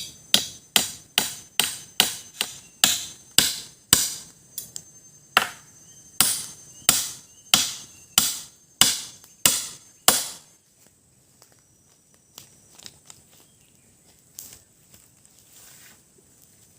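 Machete (parang) chopping into wood: about twenty sharp, even strikes, nearly two a second, stopping about ten seconds in, then a few faint knocks. Insects trill steadily underneath.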